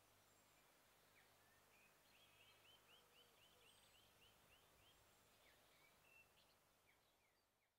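Near silence with faint outdoor birdsong: a quick run of about a dozen repeated chirps, about four a second, a couple of seconds in, and scattered single calls around it, fading out at the end.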